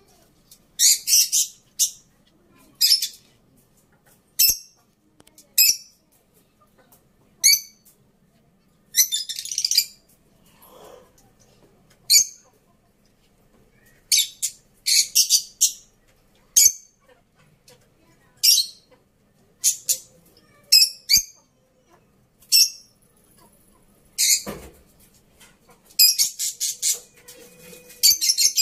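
Birds giving short, high-pitched chirps again and again, one every second or two, some in quick runs of two or three.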